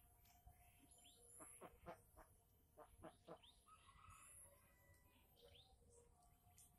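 Near silence: faint bird chirps in the background and a few light ticks and scrapes from a hand working at a rotten bamboo log.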